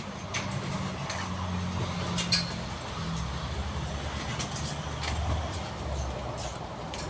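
A steady low engine rumble that fades out about six seconds in, with scattered light clicks and clinks over it.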